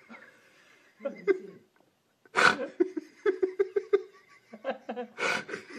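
A person laughing: a loud breathy burst about two seconds in, then a run of quick, evenly spaced laughs, and another burst of laughter near the end.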